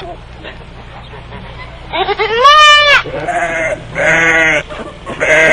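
An animal bleating: four wavering calls, the first about two seconds in the longest and loudest, rising and then falling in pitch, followed by three shorter ones.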